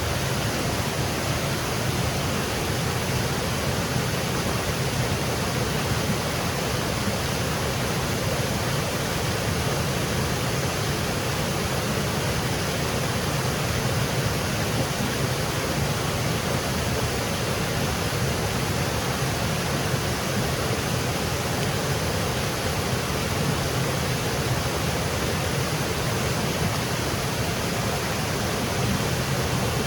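Small woodland waterfall cascading, a steady rush of falling water.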